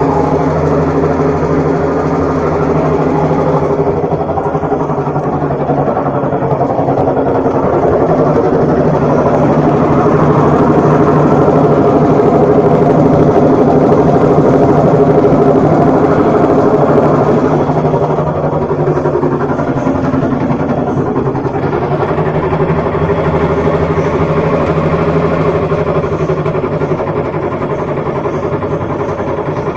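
Washing machine running with a loud, steady motor drone, compared to an airplane, swelling a little louder about a third of the way in and easing back later.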